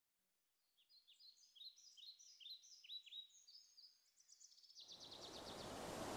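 Faint birdsong: a run of quick chirps, mostly short notes falling in pitch, coming faster towards the end. About five seconds in, a hiss rises up under them and keeps swelling.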